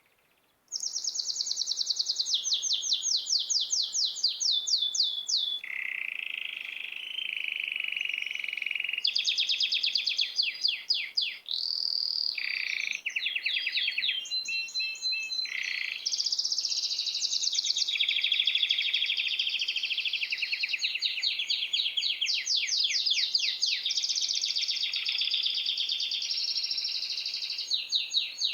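Small songbirds chirping and singing fast repeated trills, one phrase after another with no pause, starting suddenly about a second in.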